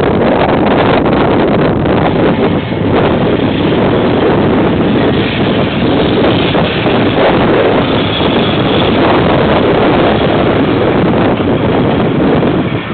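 A KiwiRail train passing, a loud, steady rumble with a few clicks in the first seconds, picked up by a security camera's microphone along with wind noise.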